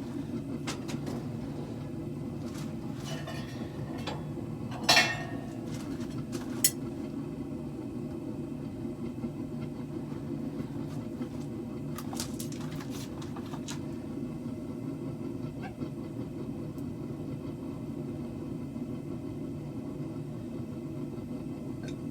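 Propane forge burner running with a steady low rushing sound, its tank nearly empty. A sharp metallic clank about five seconds in and another shortly after, with a few lighter clicks later.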